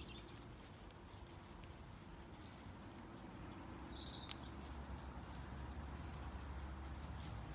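A small bird chirping outdoors: two runs of short, falling chirps about three a second, the second run starting about halfway through. Under it is a faint low rumble that grows stronger in the second half.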